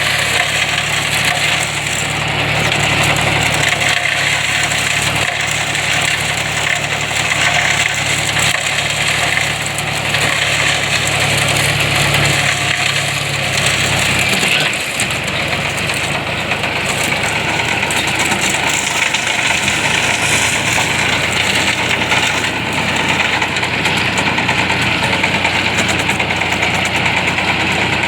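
John Deere tractor engine running steadily while driving a cotton shredder, with a dense crackle and rattle from the shredder. The engine's low note changes about halfway through.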